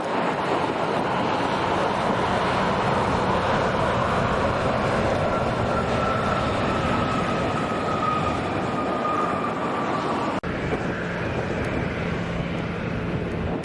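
Jet airliner engines running with a loud, steady roar and a faint whine that slowly falls in pitch. The sound breaks off sharply about ten seconds in and carries on a little quieter.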